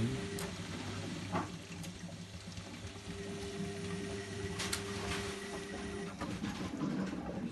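Zanussi Lindo 100 washing machine draining after its first rinse: the drain pump hums steadily with water rushing through, and the pump's higher whine drops away about six seconds in.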